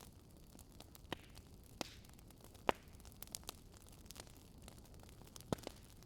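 Wood fire crackling: scattered sharp pops and snaps at irregular moments over a soft steady hiss, the loudest pop about halfway through and another strong one near the end.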